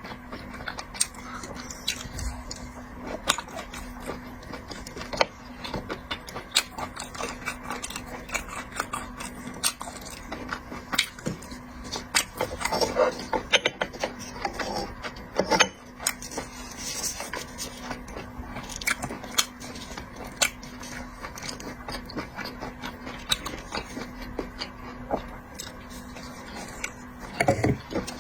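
Close-up eating of shellfish: many sharp clicks and cracks from shells and utensils, with biting and chewing, over a steady low hum.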